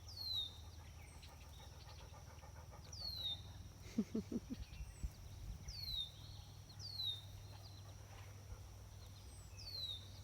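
A bird's short, high whistle sliding downward, repeated five times a few seconds apart. About four seconds in, a dog pants briefly.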